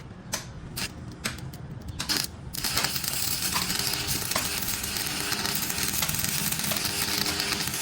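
A few sharp metallic clinks of tools, then a loud steady hiss starts about two and a half seconds in and keeps on, over a steady low mechanical hum.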